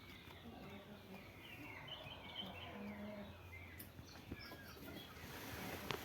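Faint chirping of small birds, many short high twitters scattered throughout, with one brief low call about halfway through.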